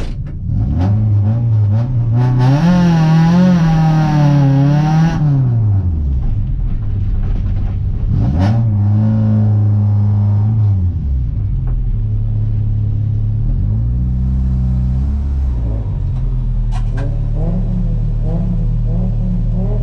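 Renault Clio 1.8's four-cylinder engine heard from inside the caged cabin, revving up through the low gears for a few seconds and then easing off. It pulls up again about eight seconds in, holds a steady pitch for a couple of seconds, then drops back to a lower, steady run with small rises in revs near the end.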